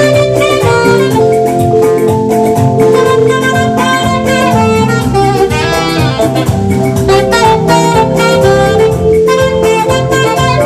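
Instrumental band music led by a saxophone, with drums and percussion underneath.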